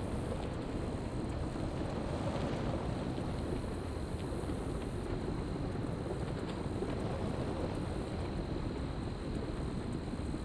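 Steady wind rushing over the microphone, a dense low rumble with a few faint ticks scattered through it.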